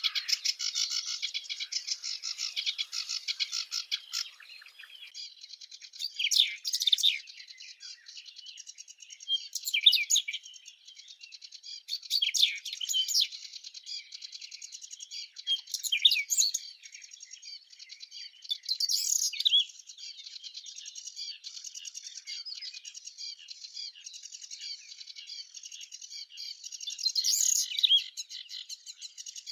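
Birds chirping: a continuous fast chatter of high chirps, with louder calls standing out every few seconds.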